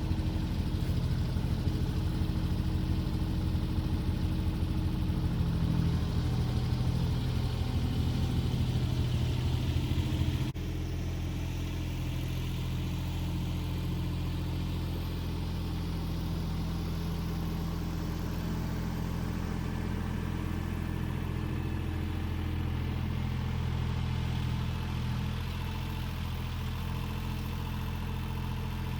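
An engine idling steadily. About ten seconds in the sound changes abruptly and carries on as a slightly quieter, steady idle.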